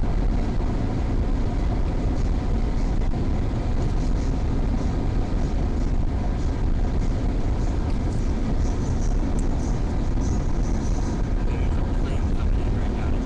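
Steady road and engine noise inside a moving car's cabin, a low, even rumble with no breaks.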